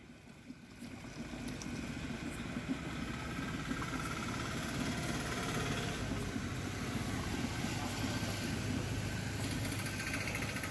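Vehicle engine running steadily with road noise, building up over the first couple of seconds.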